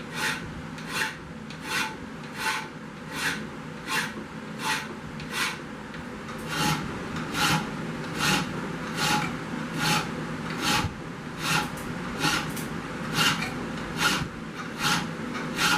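A hand file is rasping across forged carbon steel in a steady run of strokes, a little more than one a second. It is squaring up and cleaning the bolster-to-tang transition of a forged 1085 steel blank.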